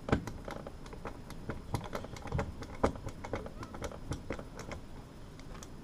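Irregular sharp clicks and light knocks of a metal heater floor register and its screws being handled and worked on, with the loudest knocks just after the start and about three seconds in.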